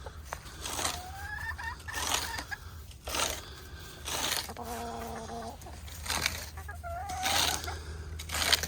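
Hens clucking and giving short, low calls, with a scratchy crunch about once a second from the birds scratching in sand.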